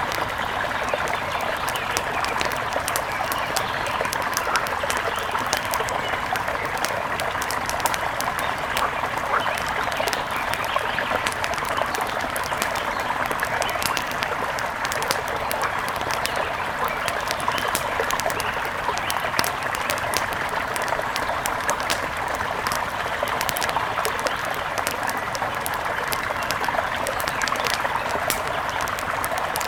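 Nature ambience: the steady rush of a mountain river overlaid with frequent sharp pops and crackles of a wood fire.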